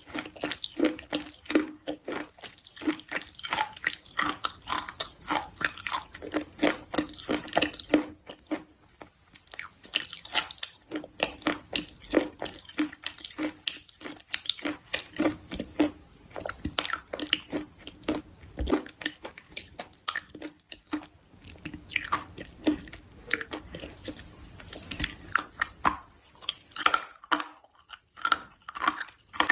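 Close-miked chewing and biting of crunchy food: a steady run of crisp crunches, several a second.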